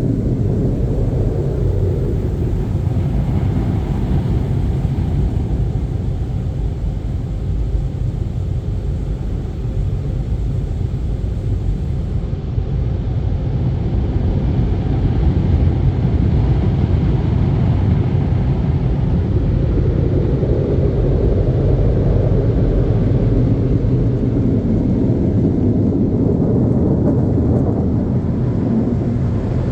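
Dryer blowers of a Mark VII Aqua Jet GTO-300 touch-free car wash running: a loud, steady rush of blown air through the dry cycle.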